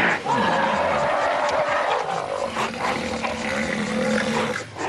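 Loud calls from a large animal, an elephant or rhino in a fight: one long, harsh call held for about four seconds, breaking off sharply near the end.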